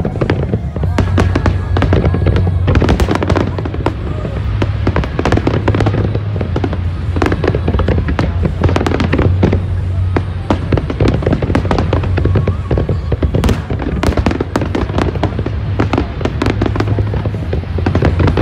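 Dense barrage of aerial fireworks: many shells bursting in rapid, overlapping bangs and crackles without pause, over a constant low rumble, with music playing underneath.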